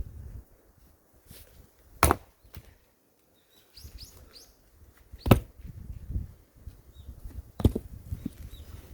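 Three hard strikes of an axe into firewood, about two and a half seconds apart. The log is knotty and does not split cleanly. Faint bird chirps sound between the blows.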